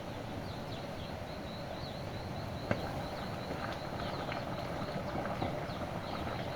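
Steady outdoor background noise with a short, high chirp repeating about two or three times a second, and a single sharp click a little before the middle.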